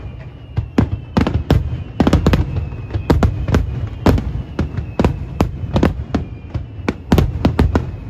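Aerial fireworks going off in quick succession: many sharp bangs, several a second, over a continuous low rumble of shell bursts echoing across the lake, with faint falling whistles.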